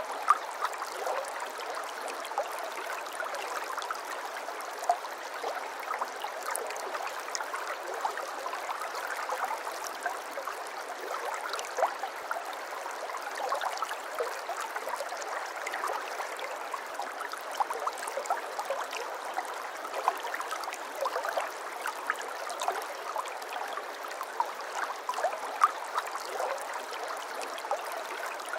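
Water flowing and trickling steadily in a small stream, a continuous burble with many small irregular splashes.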